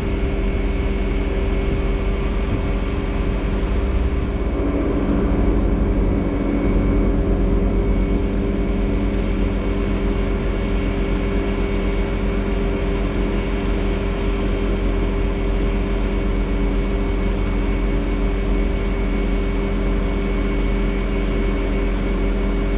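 Bobcat S650 skid steer's diesel engine running steadily under a load, with a steady high whine over it, swelling a little about four to eight seconds in.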